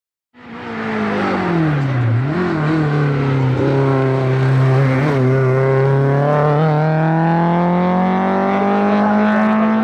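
Peugeot 206 rally car's engine under hard acceleration: its note drops over the first couple of seconds, then climbs steadily as the car pulls uphill.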